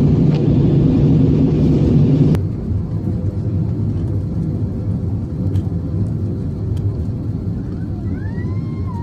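Cabin noise of an Airbus A320-200 airliner: a loud, dense rumble that drops suddenly about two seconds in, then carries on as a quieter steady rumble.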